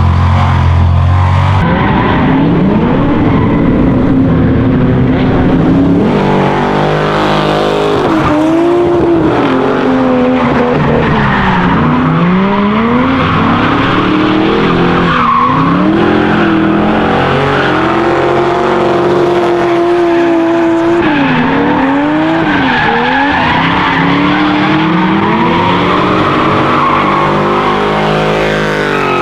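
Drift cars running hard: the engines rev up and down again and again with the throttle, over continuous tyre squeal and skidding.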